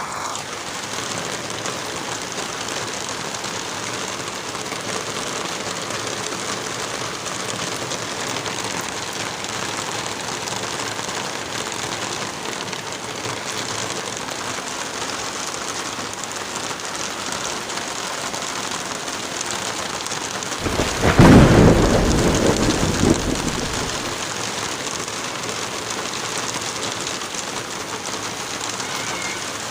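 Steady rain falling, with one thunderclap about two-thirds of the way through that rumbles for about three seconds and fades.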